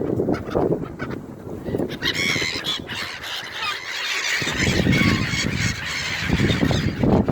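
A flock of gulls squawking and calling over one another, starting about two seconds in, with wind rumbling on the microphone.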